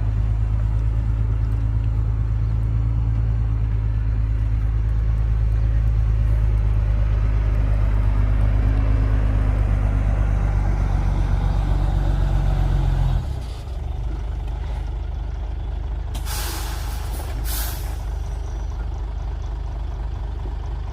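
Heavy diesel construction machinery engine running loud and steady under load, then dropping to a lower, quieter run about two-thirds of the way in. A short, loud hiss of air follows near the end, like an air brake venting.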